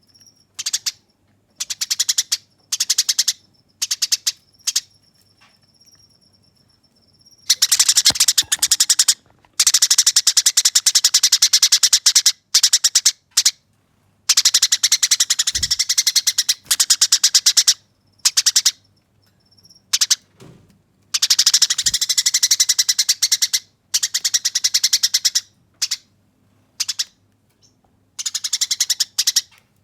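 Eurasian tree sparrow giving its harsh, clear fighting chatter: fast rattling runs lasting several seconds, broken by short bursts of chirps. About five seconds in there is a brief thin steady whistle.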